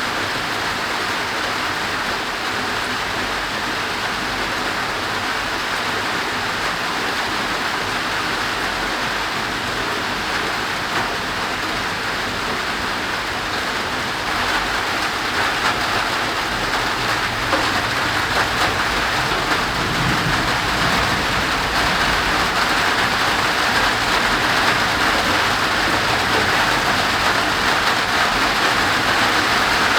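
Steady thunderstorm rain falling, growing a little louder about halfway through.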